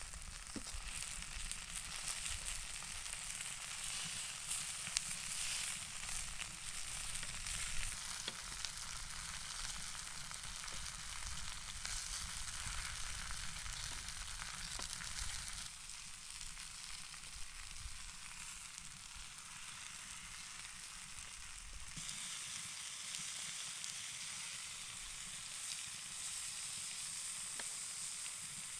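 Food frying in a pan: a steady sizzle with small crackles. The sound shifts abruptly twice, about 16 and 22 seconds in.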